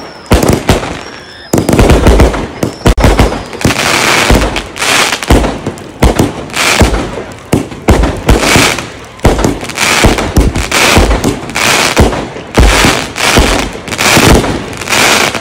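Fireworks and firecrackers going off in a dense, continuous barrage of bangs and crackles, with a few faint whistles in the first seconds.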